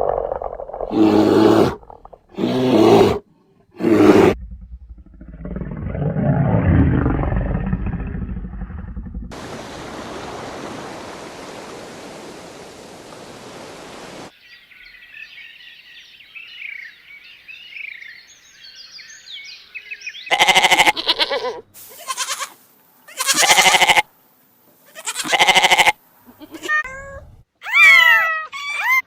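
A sequence of different animal calls: a few short loud roar-like calls, a low rumbling growl, a stretch of steady hiss, faint high chirping, then several loud calls. It ends with short calls that slide up and down in pitch, like a cat meowing.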